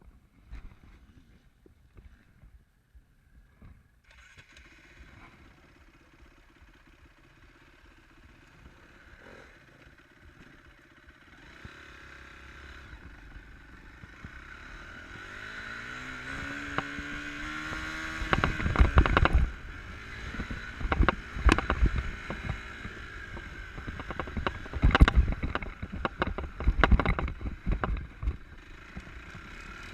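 Enduro motorcycle engine that is faint at first, then grows louder and rises in revs. From a little past the middle come repeated loud knocks and clatter over the engine.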